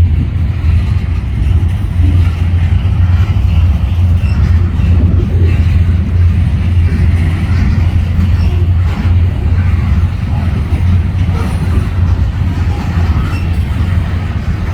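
Freight train hauled by EMD SD40-2 diesel locomotives passing, a loud steady low rumble.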